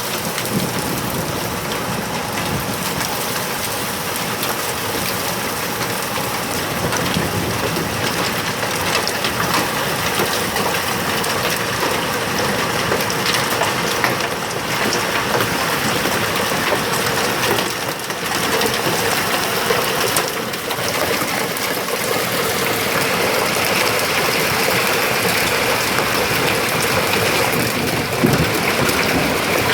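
Hail and rain pelting down in a heavy storm: a dense, steady clatter of countless small impacts, growing a little louder about two-thirds of the way through.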